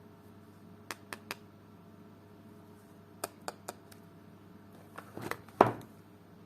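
Soap packaging being handled and unwrapped: three quick sharp clicks, another three a couple of seconds later, then a crinkling rustle that ends in one loud snap near the end.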